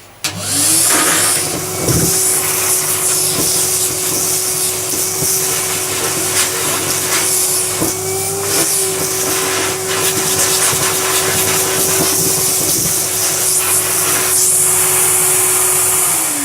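Numatic Henry canister vacuum cleaner switched on, its motor whine rising to a steady pitch and running with a rushing hiss and scattered clicks as it picks things up. It winds down near the end as it is switched off.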